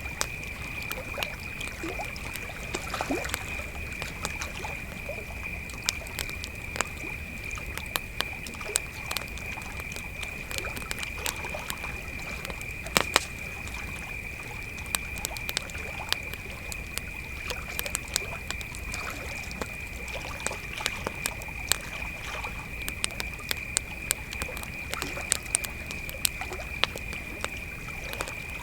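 Crickets trilling steadily in one high, unbroken tone, with a campfire crackling and popping over it in irregular sharp snaps. The loudest pop comes about halfway through.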